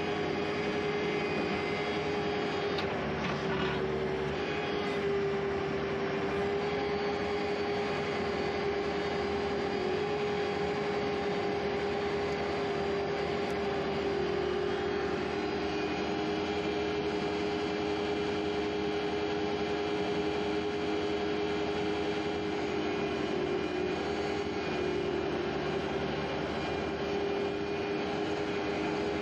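Skid steer engine running steadily at a constant throttle, with a slight dip in pitch about four seconds in.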